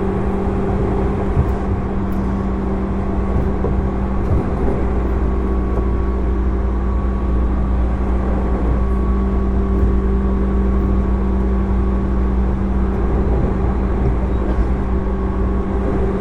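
Running sound inside the motor car of a JR East 205 series electric train. Its MT61 traction motors, which have external fans, give a steady hum whose pitch holds level, over a continuous low rumble from the wheels and running gear.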